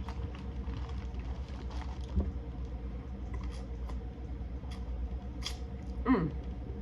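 Close-up eating sounds of corn on the cob being bitten and chewed: soft wet chewing and small smacking clicks over a steady low hum. A short humming "mm" falls in pitch near the end.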